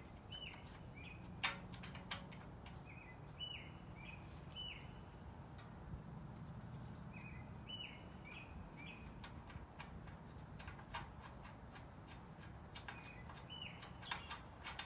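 A bird singing short phrases of a few quick chirps every few seconds, over a steady low background hum. Scattered light clicks and taps of metal parts being handled as a grille bolt is threaded in, the sharpest about a second and a half in.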